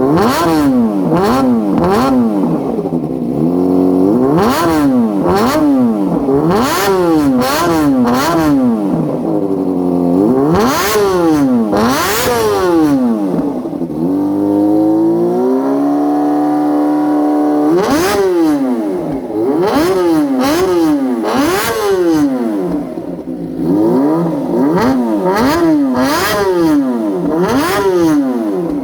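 A Kawasaki ZX25R's 250 cc inline-four engine is revved again and again in quick blips through an aftermarket under-seat (undertail) exhaust, each rev rising and falling in pitch. About halfway through, the revs are held steady for a few seconds, then the quick blipping resumes.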